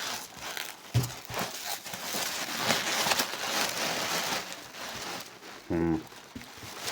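Hands digging through a box of styrofoam packing peanuts, an irregular rustling and crackling with scattered clicks. A short vocal grunt about six seconds in.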